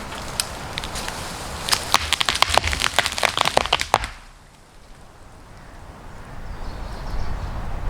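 A big tree going over: a quick run of sharp cracks and snaps of breaking wood and branches that stops abruptly about halfway through. Low wind noise then builds toward the end.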